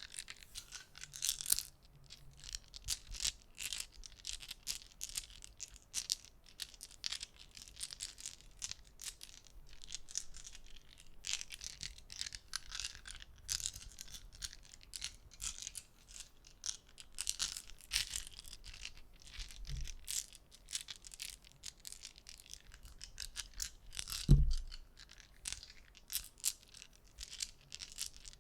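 Polyhedral gaming dice clicking and rattling together as they are handled, a steady stream of small irregular clicks, with one heavier low thump about three-quarters of the way through.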